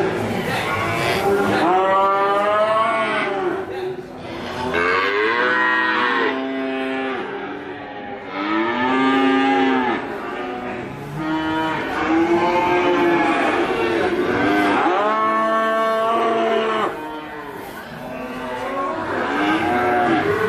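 Cattle mooing: a string of long, drawn-out moos, each one rising and then falling in pitch.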